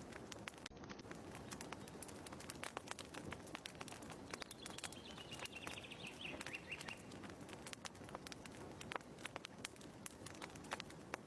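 Wood fire crackling in a fireplace: irregular pops and snaps over a soft steady hiss. A bird's short descending trill comes in about four and a half seconds in and lasts a couple of seconds.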